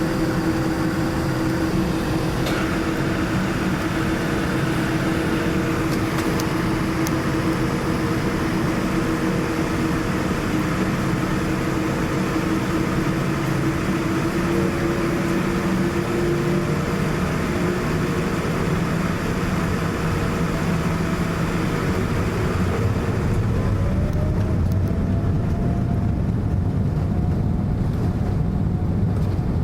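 Boeing 787-9 Dreamliner's engines and airflow heard from inside the cabin during takeoff: a loud, steady noise with a few held tones. About three-quarters of the way through, the high hiss falls away, the low end grows and a tone rises in pitch.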